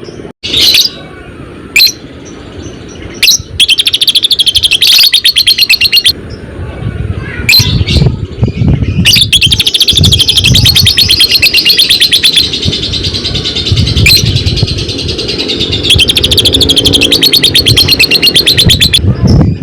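Lovebird (fighter type) giving its long 'ngekek' song: a few sharp single chirps in the first seconds, then long runs of rapid, evenly pulsed high chattering. This is the bird in full song, used to spur other lovebirds to sing.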